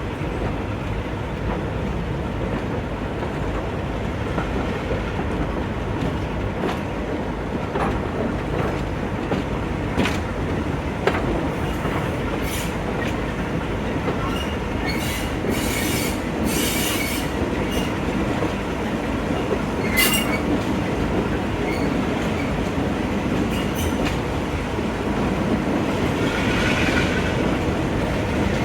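Train running along the track: a steady rumble with wheels clicking over the rail joints, and short high wheel squeals several times, loudest over the second half.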